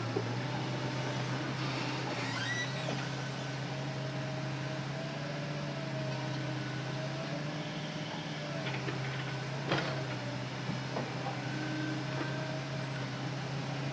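Hitachi Zaxis excavator's diesel engine running steadily under work, with a wavering hydraulic whine over it. A few creaks sound early on, and a sharp knock comes about ten seconds in.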